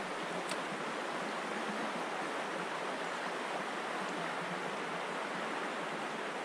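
Steady rushing of a flowing river, with one light click about half a second in.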